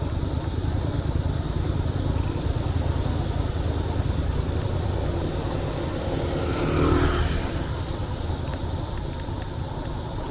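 Road traffic heard from a moving bicycle over a steady low rumble. A motor vehicle passes close about seven seconds in; this pass is the loudest moment.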